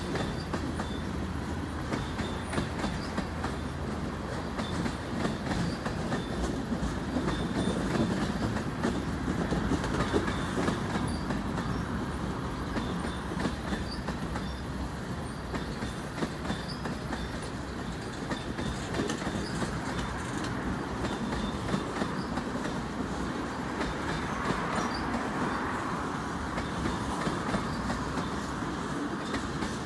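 A long freight train of tank cars rolling steadily past, its steel wheels clicking continuously over the rail.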